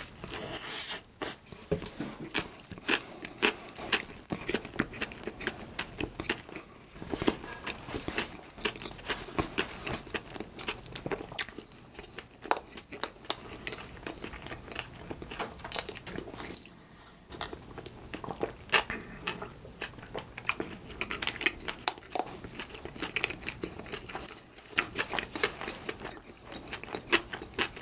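Close-miked chewing of a mouthful of soft bread: a dense run of wet mouth clicks and smacks, with a few short pauses between bites.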